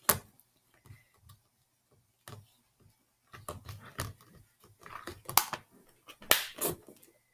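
Irregular clicks, taps and light knocks of small objects being handled and set down, with a sharp one right at the start and the loudest ones in the second half.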